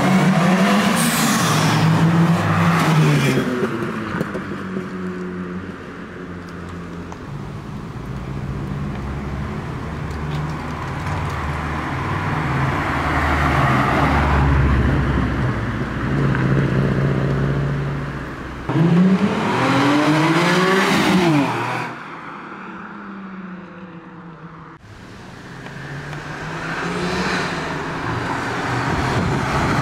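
Car engines accelerating and revving as several cars drive past one after another, their pitch rising and falling with each pass. A hard rev-up comes about two-thirds through, then the sound cuts abruptly to a quieter engine running.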